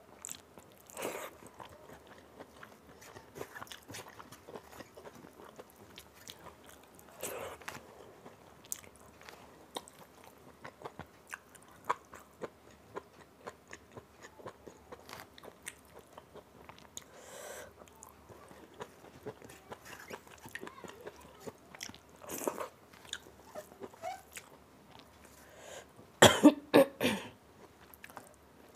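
Close-miked chewing and wet mouth sounds of someone eating rice and dal by hand, with many small clicks. Near the end comes a sudden run of four or five loud sharp sounds close together.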